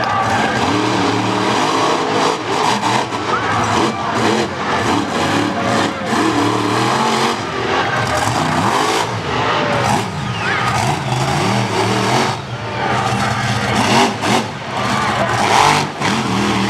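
Monster truck engine run hard through a freestyle run, loud and continuous, the revs rising and falling as the throttle is worked.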